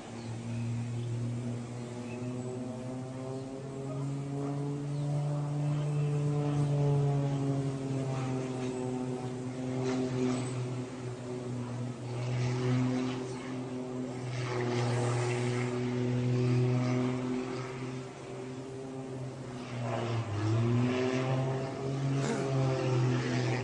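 Propeller airplane engine droning steadily, its pitch wavering slightly, then dropping and climbing back up about twenty seconds in.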